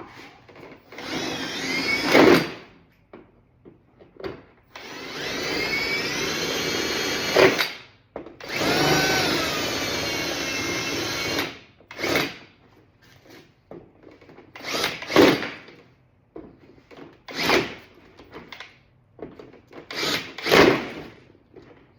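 Power drill drilling out the rivets that hold a car door panel's trim piece: three longer runs, each whining up in pitch as it spins up, then shorter pulses spaced a few seconds apart.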